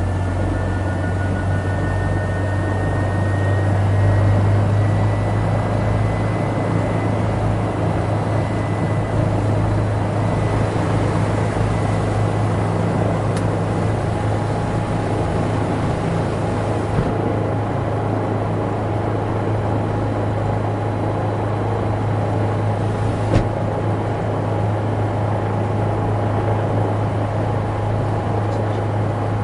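Helicopter in flight: a loud, steady low drone of engine and rotor noise, with a faint high whine that rises slightly over the first few seconds.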